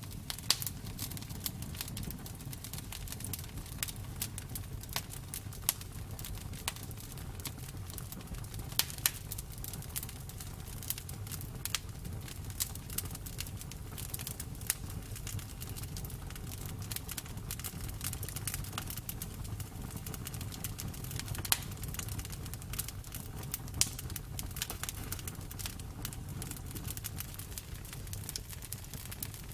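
Campfire burning steadily, wood crackling with many small irregular snaps and an occasional louder pop over a low rumble of the flames.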